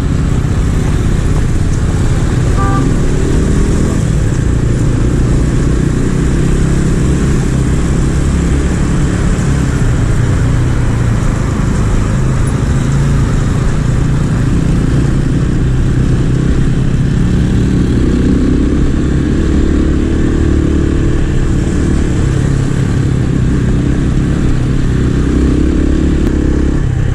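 A 250 cc scrambler motorcycle engine running under way on a gravel road, its pitch rising and falling with the throttle, over a steady rush of wind and road noise.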